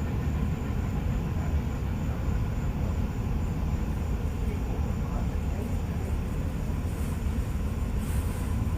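Freight train rolling past, a steady low rumble.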